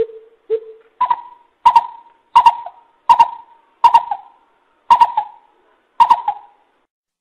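Coucal (bubut) hooting: two low hoots, then seven higher hoots spaced a little under a second apart, each starting with a sharp click.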